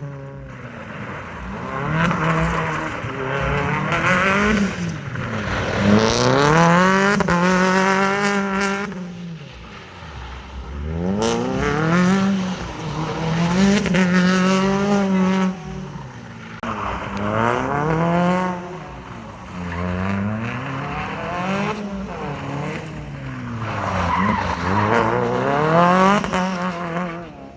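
Modified Suzuki Ignis race car's engine, driven hard: it revs up and falls back again and again, its pitch climbing for a couple of seconds and then dropping, about ten times over.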